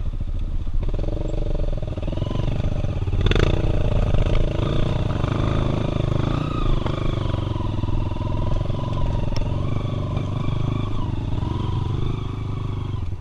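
Single-cylinder engine of a 240 cc Honda XR trail bike running along a dirt trail, its note rising and falling with the throttle, with a sharp knock about three seconds in.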